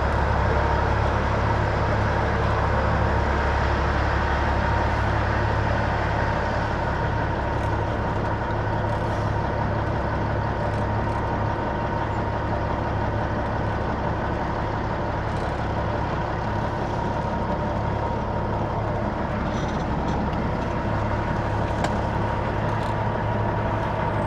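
Peterbilt 379 semi-truck's diesel engine running steadily, a constant low drone that eases slightly a few seconds in.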